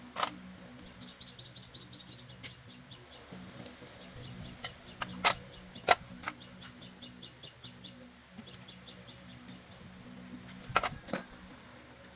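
Scattered sharp knocks and clicks, about six of them, the loudest near the middle and a quick double knock near the end. Under them run a steady low hum and rows of rapid high chirps, about five a second.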